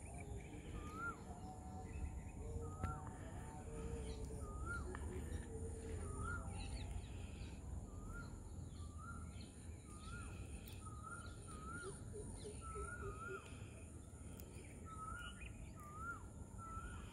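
A bird calling a short note that rises and then drops, repeated about once a second, over a steady low background rumble.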